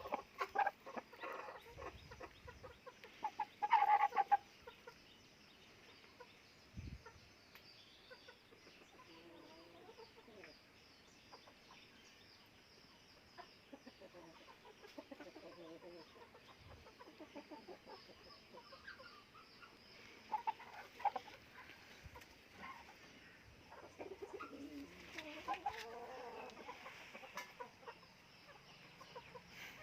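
Aseel chickens clucking, with louder calls near the start and at about four seconds, then quieter clucks and calls in the second half.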